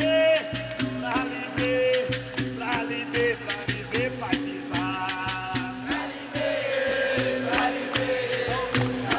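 Capoeira roda music: a berimbau repeating a low two-note pattern with a caxixi rattle, steady percussion strokes and sung verses.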